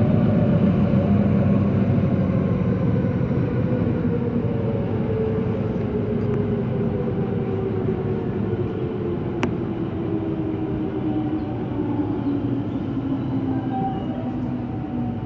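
Electric local train heard from inside the carriage as it slows into a station: steady running noise under a motor whine that falls slowly in pitch as it brakes, growing gradually quieter. One sharp click about nine and a half seconds in.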